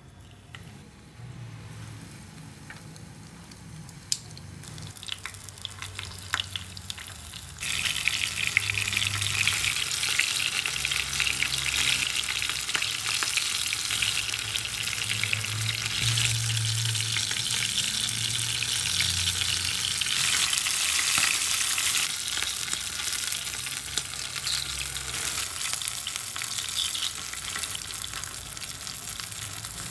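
Breaded shrimp frying in hot oil in a pan: a dense sizzling crackle. It starts quieter with a few light clicks, then swells sharply about eight seconds in and stays loud, easing a little near the end.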